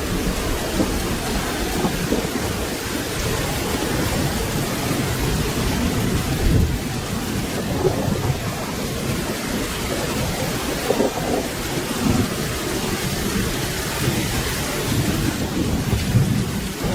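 Steady rain with low, continuous rolling thunder underneath.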